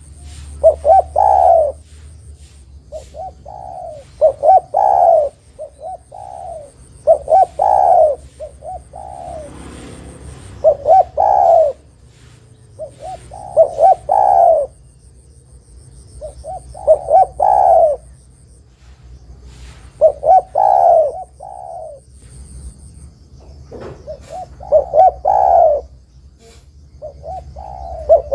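Spotted dove (tekukur) cooing: short phrases of several coos, repeated about every three seconds.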